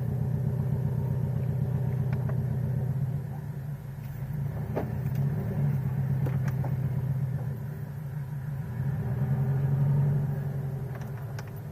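Scion FR-S's flat-four engine running steadily, with a low hum that swells slightly about nine or ten seconds in and eases off near the end; a few faint clicks.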